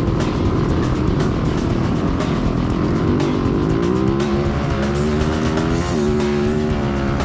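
Motocross dirt bike engine running hard under throttle, its pitch rising and falling as the rider accelerates and shifts, with a drop in pitch about six seconds in. Wind buffets the microphone throughout.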